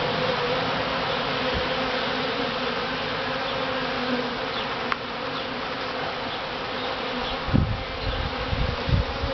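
A swarm of honey bees buzzing densely close by, a steady hum of many wings. A few low thuds near the end.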